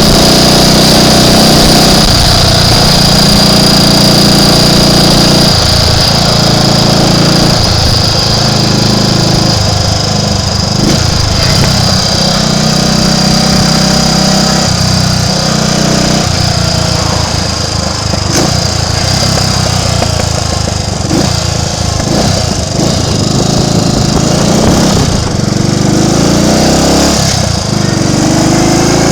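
Triumph Tiger Cub's 199 cc single-cylinder four-stroke engine running under way. Its revs rise and fall with throttle and gear changes, and it climbs in pitch near the end. The engine has a misfire, which the rider puts down to a bit of dirt in the carburettor.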